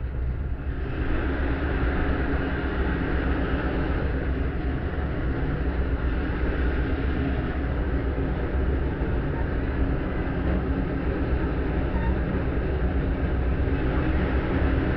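Passenger railcar riding close behind the locomotive, heard from the car's vestibule: a steady rumble and clatter of wheels on rail mixed with the locomotive running. The noise steps up and grows louder about a second in.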